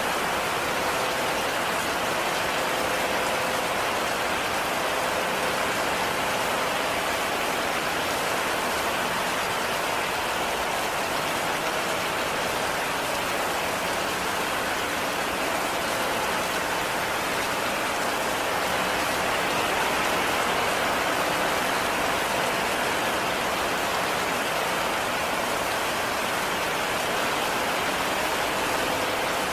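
Heavy rain falling on a cabin, a steady even hiss with no breaks or changes.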